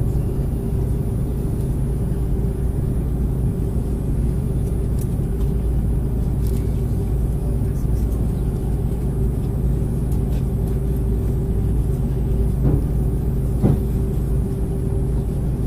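Steady low rumble and hum of an Airbus A330-300's passenger cabin on the ground after landing, with two brief clicks near the end.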